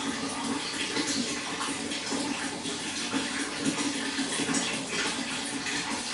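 Running water splashing steadily into a fish pond.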